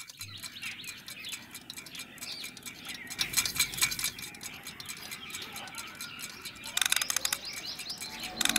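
Birds chirping and twittering in short quick calls, with light tinkling chime-like clicks; a quick rattle of clicks comes near the end.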